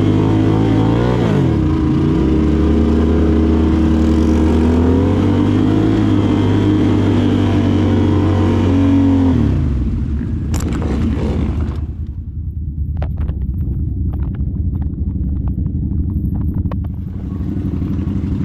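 Can-Am Renegade ATV engine held at high revs, its pitch dipping and climbing again, then dropping to a low idle about ten seconds in. Scattered clicks and clatter over the idling engine near the end.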